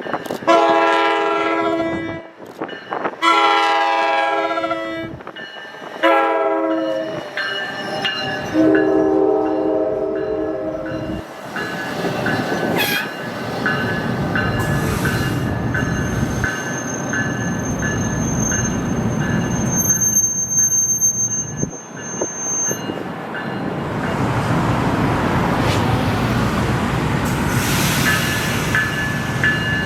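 NJ Transit train's chord horn sounding four blasts, long, long, short, long, the grade-crossing signal. The train then passes, with a steady rumble of wheels on the rails and a light clickety-clack.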